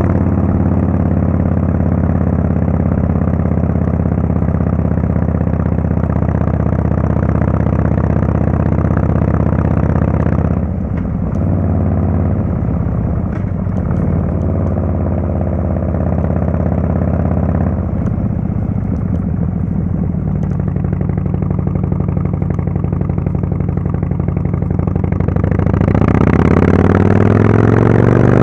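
Harley-Davidson Fatboy S Screamin' Eagle Twin Cam 110 V-twin running through a Kesstech valved exhaust at a steady cruise. Around ten seconds in it eases off on the throttle and stays low for several seconds, then it pulls steadily again. Near the end it accelerates with a rising pitch.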